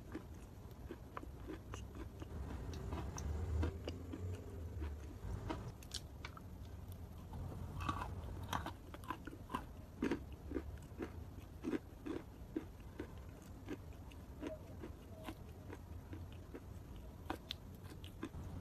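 Close-miked chewing of wet chalk paste: soft, irregular wet crunches and mouth clicks as the paste is bitten and worked between the teeth.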